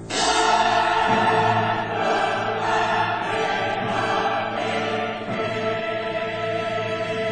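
Choral music with a choir singing sustained, held chords, entering suddenly and loudly at the start.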